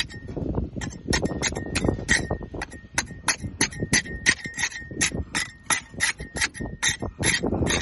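Scraper chipping and scraping barnacles off a boat hull: quick repeated sharp strokes, about three or four a second.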